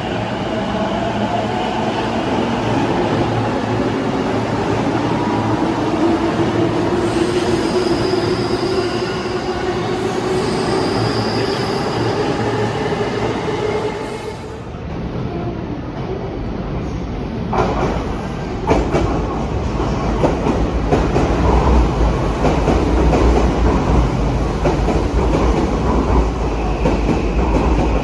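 Electric train running, its motor whine rising slowly in pitch, with high wheel squeal. About halfway through, the sound changes to a train rolling past with a loud low rumble and repeated clacks of wheels over rail joints.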